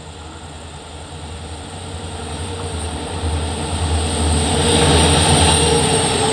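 EMD diesel locomotive approaching, its deep engine hum and rumble growing steadily louder.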